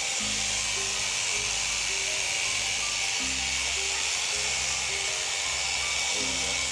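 Electric sheep-shearing handpiece running steadily as it cuts through a sheep's fleece, a continuous high buzz. Background music with a stepping bass line plays underneath.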